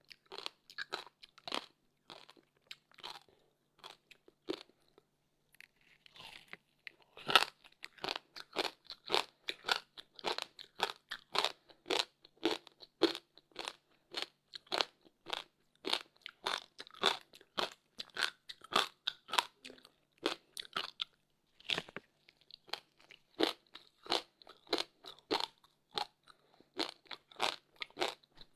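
Close-miked crunching and chewing of frozen passion fruit ice, a steady run of sharp crunches about two a second, with a brief lull and a loud bite about seven seconds in.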